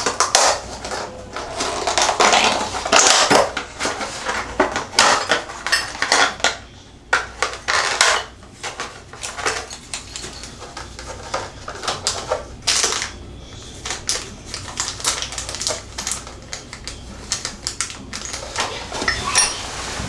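Irregular clicking and clattering of small metal parts and a hand tool as a screw is fitted and driven into a Moen tub/shower valve part.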